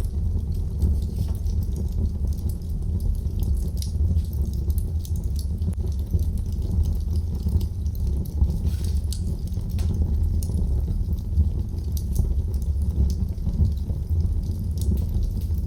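Wood fire crackling in a fireplace: many small, irregular pops and snaps over a steady low rumble.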